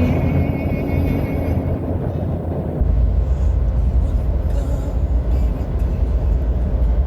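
Strong sandstorm wind buffeting the microphone as a loud, deep rumble that grows stronger about three seconds in.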